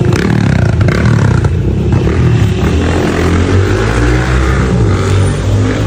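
A motor vehicle engine running close by, loud and steady, with street noise.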